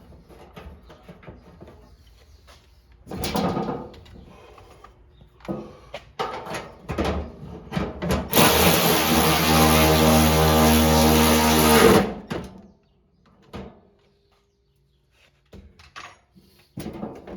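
Power drill motor running steadily for about five seconds, driving a bolt, then stopping abruptly; short knocks and clatters of tool handling come before and after.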